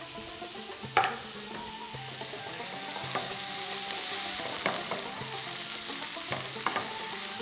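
Merguez, green peppers and chopped tomatoes sizzling in a non-stick frying pan while a wooden spoon stirs them. The spoon knocks against the pan sharply about a second in and lightly twice more, and the sizzle gets louder a couple of seconds in.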